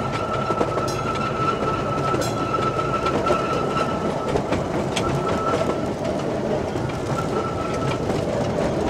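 Small park train rolling along the track, heard from an open passenger car: a steady rumble with scattered clicks from the wheels and rails. A thin high whine runs through the first half, then cuts out and returns briefly twice before stopping.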